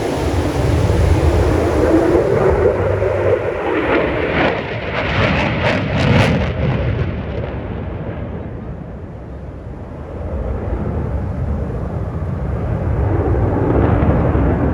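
Display aircraft flying past at an airshow: a loud engine roar whose pitch falls in the first few seconds. It is loudest about four to six seconds in, dies away around ten seconds, then builds again near the end as an aircraft approaches.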